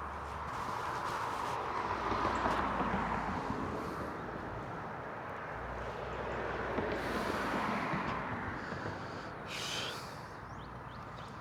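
Road traffic passing: two swells of tyre and engine noise about five seconds apart, with a brief hiss near the end.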